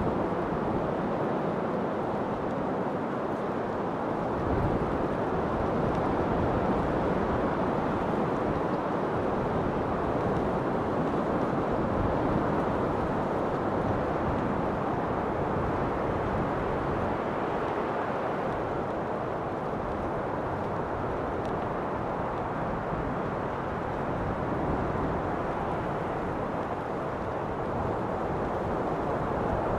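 Steady wind, a continuous rushing that swells and eases slowly.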